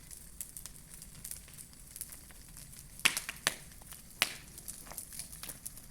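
Large wood bonfire crackling over a steady hiss, with irregular sharp pops; the loudest pops come around three to four seconds in.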